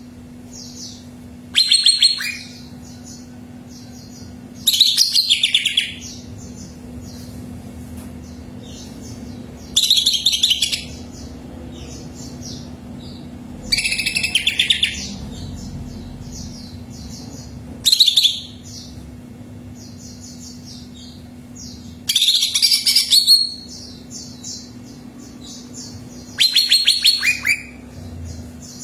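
Cucak ijo (green leafbird) singing: loud bursts of rapid, chattering high notes about every four seconds, seven in all, over faint continuous twittering and a steady low hum.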